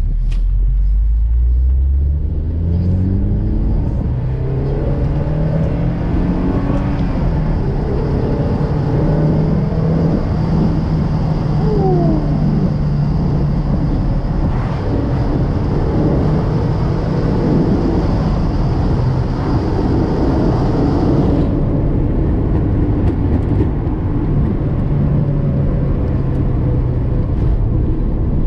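1984 Porsche 944's four-cylinder engine under way. Its revs climb over the first few seconds, then hold fairly steady at cruise under heavy road and wind noise.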